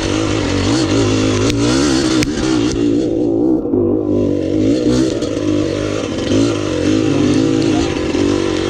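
Dirt bike engine running under way on a trail, its pitch rising and falling with the throttle; the hiss above it drops away briefly in the middle.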